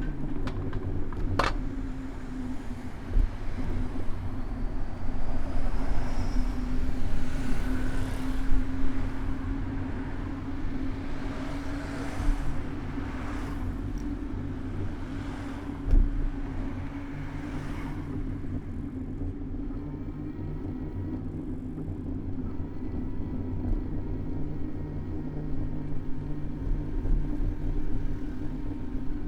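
City road traffic heard from a moving bicycle: motor vehicles pass with rising and fading whooshes over a steady low drone. There is a sharp click about a second and a half in and a thump about two-thirds of the way through.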